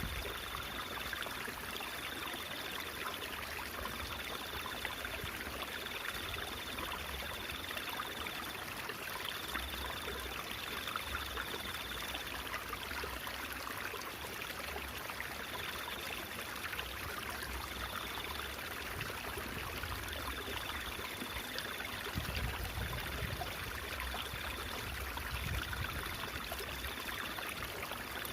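Water running and trickling steadily, like a small stream, with no break. A faint, thin high tone comes and goes in short dashes behind it.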